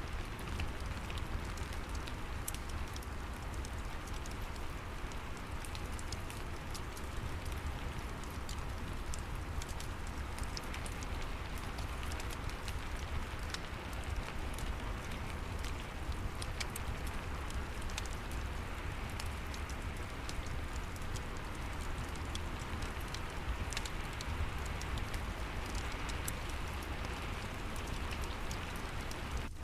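Steady rain with the sharp, irregular crackle of a wood fire in a fireplace, over a low rumble.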